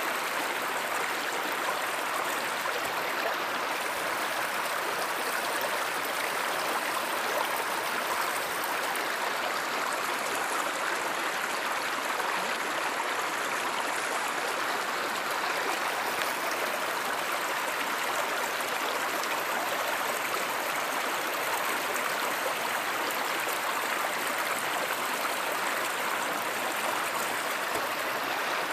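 River or stream water running steadily, an even rushing and gurgling without change.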